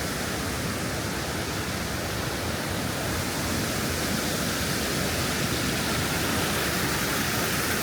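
Steady, even rush of water from a small waterfall and the stream below it.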